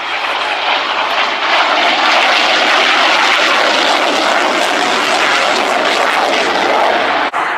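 Aircraft engine noise from a fixed-wing aircraft flying past: a loud, steady rush that builds over the first couple of seconds, with a brief sharp dropout near the end.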